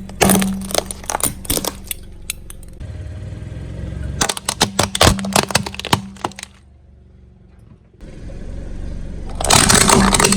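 Car tyre rolling over and crushing brittle objects: rapid sharp cracking and snapping in three spells, with a quieter lull near the middle, over a low steady hum.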